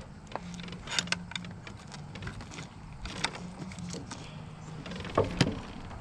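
Scattered sharp clicks and knocks over a low steady hum, the loudest two close together about five seconds in.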